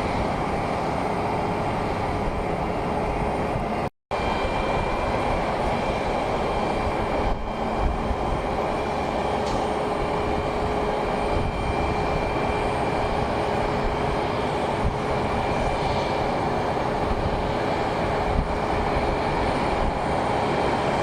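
Aircraft engines running at a steady level: an even rumble with a faint steady whine, briefly cut off about four seconds in.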